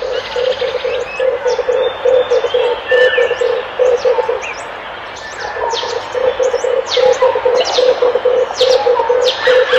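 Red turtle dove cooing in a quick run of low, evenly spaced coos, about three a second, with a break of a second or so midway before the run starts again. Small birds chirp in short, high notes over it.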